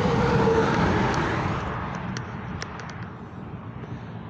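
A motor vehicle passing close by on the road: its noise swells in the first second and fades away over the next, with a tone that slides slightly down as it goes. A few light ticks follow.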